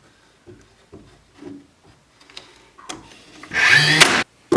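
Soft knocks of wood being handled, then near the end a nail gun fires once: a short loud whir ending in a sharp bang, tacking a support block into a wooden cabinet.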